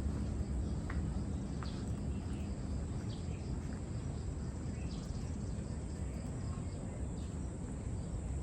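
Outdoor ambience: a steady high insect drone over a low, even rumble of ocean surf, with a few sharp clicks of footsteps early on.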